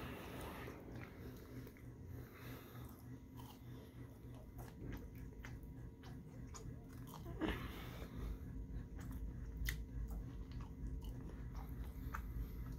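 A person chewing and biting seasoned fries, with many small scattered clicks from the mouth.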